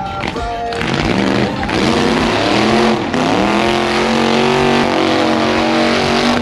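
A burnout car's engine revving hard in a burnout. Its pitch swings up and down for the first few seconds, then climbs and holds at high revs over a loud rushing hiss of spinning tyres.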